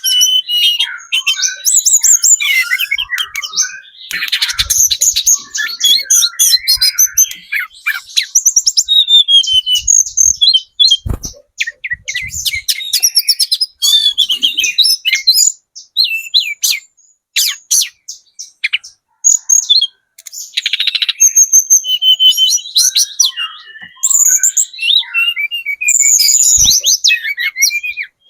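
Tledekan gunung trotol singing hard: fast runs of high-pitched chirps and trills, phrase after phrase with only short breaks. Two brief low knocks sound, one about a third of the way in and one near the end.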